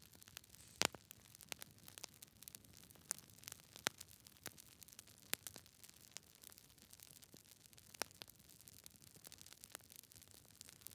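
Wood fire burning in a fireplace, logs crackling with irregular sharp pops over a soft hiss, the loudest pop about a second in.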